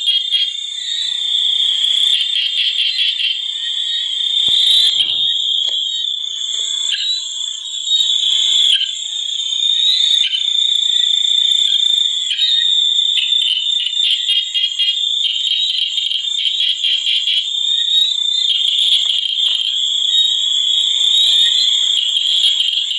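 A dense chorus of calling frogs: a steady, high-pitched pulsing trill that never stops.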